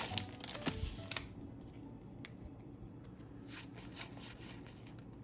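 Pokémon trading cards handled by hand and slid against one another as a booster pack is flipped through: a cluster of small clicks and a rustle in the first second, then softer scattered ticks and rustles.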